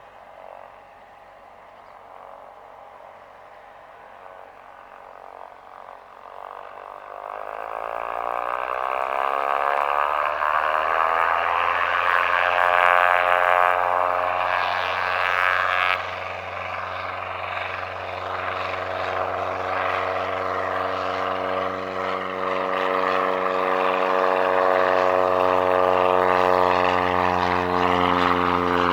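Light propeller airplane's piston engine and propeller, growing louder from about seven seconds in while its pitch rises, then holding a steady, loud drone.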